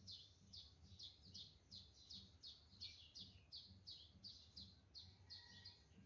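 A bird chirping faintly and steadily: a run of short, falling chirps at about three a second.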